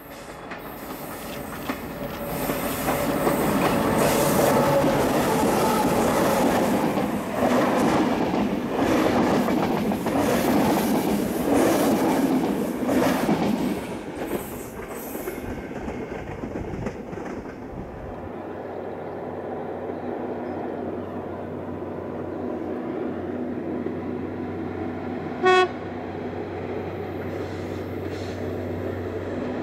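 A diesel train passes close by, wheels clattering on the rails, then fades away around the middle. Then an Adtranz DE2000 diesel-electric locomotive approaches with its engine running steadily, and gives one short horn toot near the end.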